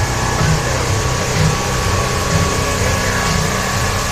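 A vehicle engine running steadily: a low rumble under a steady hiss, with a faint steady whine above it.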